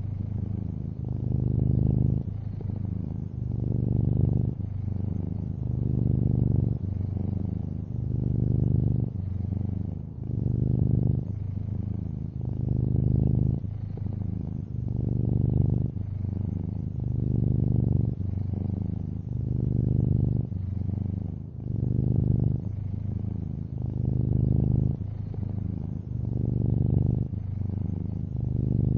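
A long-haired orange tabby cat purring steadily, a low rumble that swells and eases with each breath, about once every two seconds.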